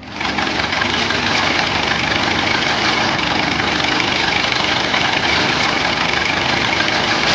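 A machine engine running steadily, a loud, even noisy rumble that starts abruptly.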